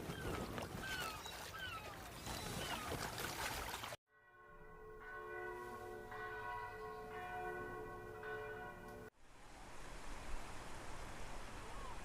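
Church bell ringing, several overlapping strokes lasting about five seconds, cut in abruptly about four seconds in and cut off just as abruptly. Before it, busy outdoor ambience with birds chirping; after it, a steady outdoor hiss with a few faint bird chirps.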